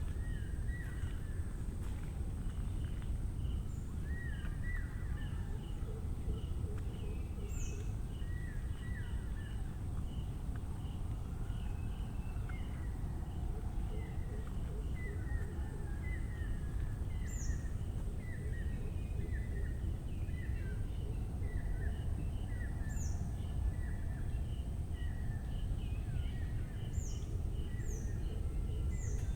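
Several birds calling in a wet mangrove forest: short chirps repeated again and again and occasional high falling whistles, over a steady high thin drone and quick ticking pulses. Under it all runs a constant low rumble, the loudest part of the sound.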